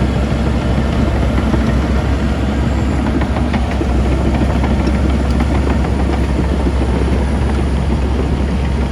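Heavy diesel engine of earthmoving equipment running steadily with a deep rumble, with a few faint clicks a few seconds in.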